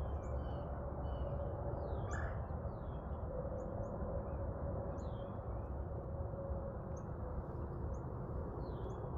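Wild birds calling: scattered short chirps and quick down-sliding whistled notes, several a second at times. Under them runs a steady low rumble with a faint hum.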